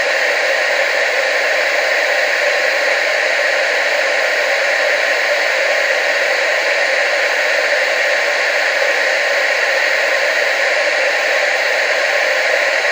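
Television static hiss, steady and unchanging, strongest in the middle and upper range with almost no low end.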